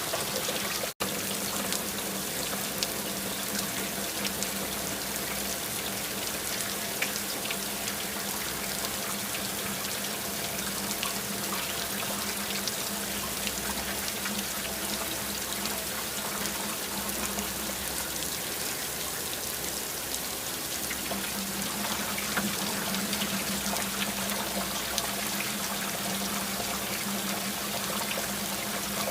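Steady rain falling, an even hiss dotted with many small drop ticks, over a low steady hum. The sound cuts out for an instant about a second in.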